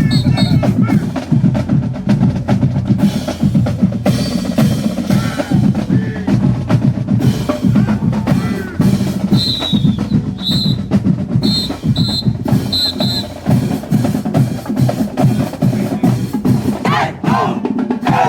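A marching band's drum section, snares and bass drums, playing a rhythmic cadence, with several short high-pitched blasts about halfway through. The drumming cuts off suddenly at the end.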